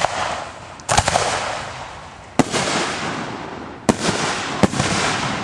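Aerial firework shells going off: five sharp bangs in quick, irregular succession, each trailing off in a lingering rumble.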